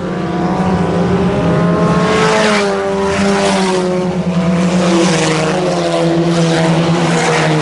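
IMCA Sport Compact race cars lapping the track, several four-cylinder engines running hard at once, their overlapping notes rising and falling. Cars swell louder as they pass, several times over.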